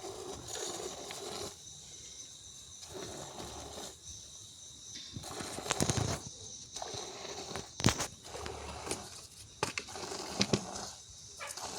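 Hand milking a cow: spurts of milk hissing into a pail come in repeated short runs with brief pauses between them. A few sharp knocks sound in the second half.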